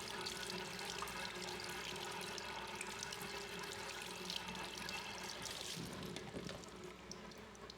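Running water splashing steadily, easing off slightly near the end.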